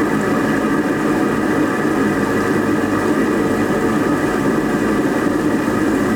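A century-old microhydro water turbine running steadily at speed, freewheeling with no load: a loud, even machine hum of the spinning runner over the rush of water through it.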